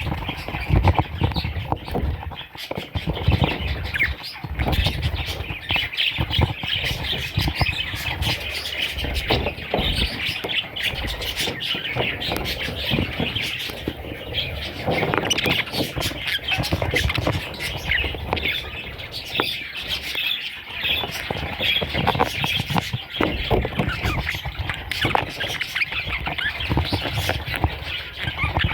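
Baby budgerigars squawking and chirping in a dense, continuous chatter of short raspy calls, with low bumps and knocks throughout.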